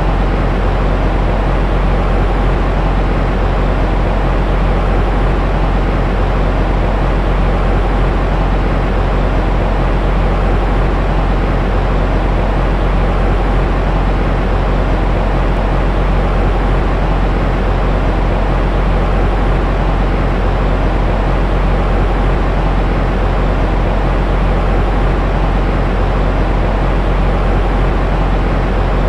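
Continuous white-noise track for soothing a baby to sleep: a steady, unchanging rumbling hiss, heaviest in the low end, with a faint steady hum in it.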